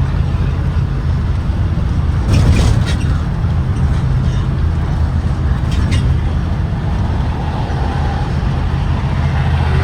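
2023 Blue Bird Vision propane school bus running with a steady low engine drone, with two brief sharp hissy noises about two and a half and six seconds in.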